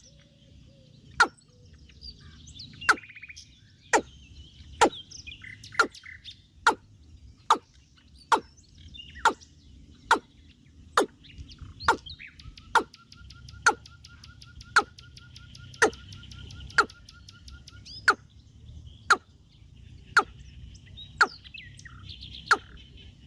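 Birds chirping and calling, with a sharp click or knock repeating about once a second, the loudest sound. A fast, even trill of ticks runs for about five seconds in the middle.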